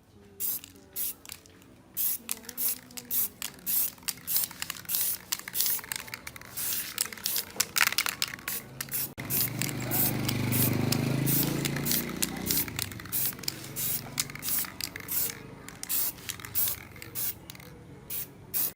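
Repeated short bursts of hissing spray, about two or three a second, with a stretch of heavier, lower sound about ten seconds in.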